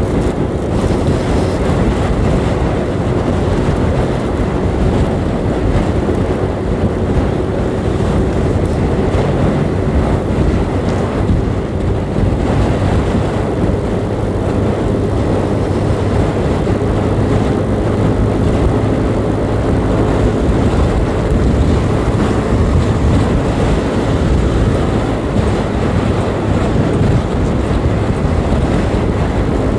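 A 125cc motorcycle ridden at road speed: steady wind rush and road noise, with a faint even engine drone underneath.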